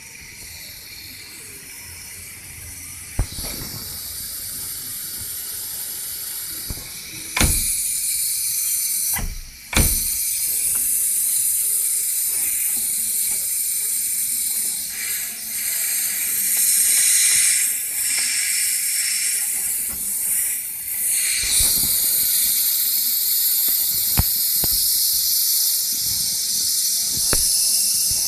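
Ford Figo 1.4 TDCi's A/C compressor hissing, a high steady hiss that gets louder about three seconds in and again about seven seconds in, with a few sharp clicks along the way.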